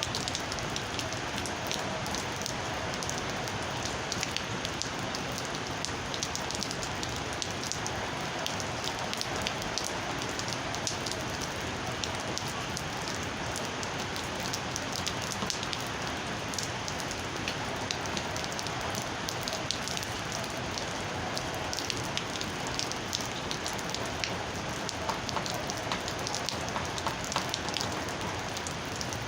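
Steady rain falling, with many individual drops ticking sharply on a surface throughout.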